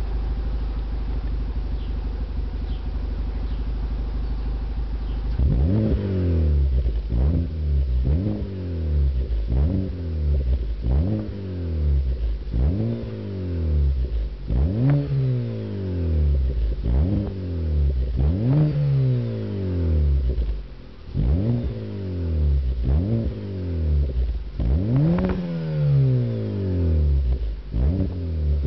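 Citroën C4 with a Borla aftermarket exhaust: the engine idles steadily, then about five seconds in it is blipped again and again, roughly once a second, each rev rising sharply and falling back, a few of them higher than the rest.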